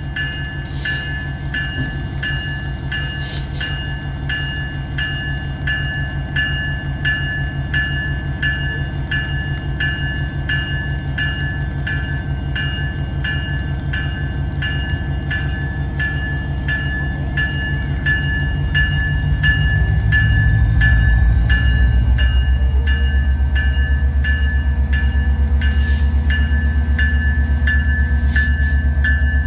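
CPKC Holiday Train's diesel locomotives and cars rumbling past while a bell rings steadily at about two strokes a second. The low rumble swells and grows louder about two-thirds of the way through as the train draws level.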